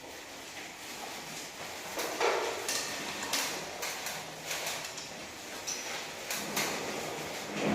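Irregular knocks, clatter and scraping of hard objects being handled, loudest about two seconds in.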